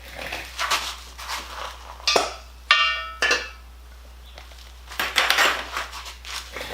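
Metal parts and tools being handled on a workbench: irregular scrapes, knocks and clinks, with one ringing metallic clink about midway.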